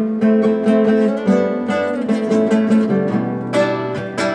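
Instrumental break of a Turkish pop-folk song: strummed acoustic guitar with sustained pitched notes over it, no voice.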